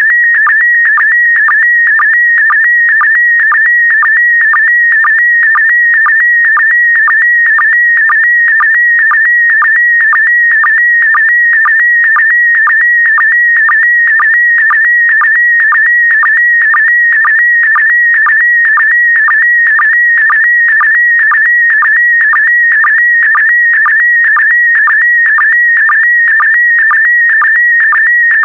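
Slow-scan TV image transmission in PD120 mode: a continuous high-pitched warbling tone that carries the picture data, dipping briefly to a lower sync tone about twice a second as each pair of image lines begins.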